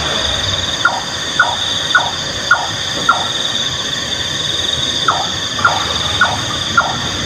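Nightjar calling: a run of five short notes, each dropping in pitch, about two a second, then after a pause of about two seconds another run of four. A steady high-pitched drone runs underneath.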